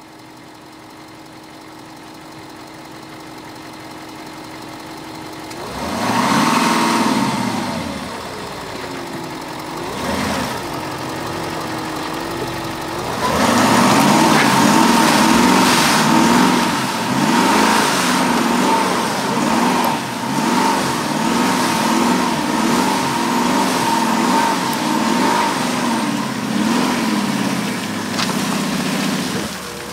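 Audi SQ7's 4.0 V8 TDI diesel engine working through deep mud: quiet and steady at first, it revs up about six seconds in and falls back, then from about thirteen seconds its revs rise and fall again and again as the tyres churn through the mud, with a steady high whine over it.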